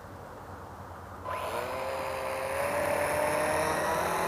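RC model Cessna 182's motor and propeller throttling up about a second in: a steady whine that glides up a little and then holds, over propeller hiss.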